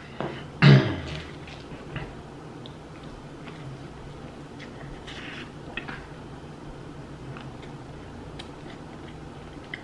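Close-miked eating sounds: a short loud mouth sound about a second in, then a bite into a cheeseburger about five seconds in, with soft chewing, lip smacks and small clicks over a low steady hum.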